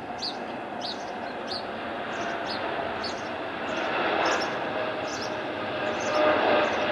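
Jet airliner's engines at takeoff thrust, a steady noise with a whine, growing louder. Short high chirps repeat about twice a second over it.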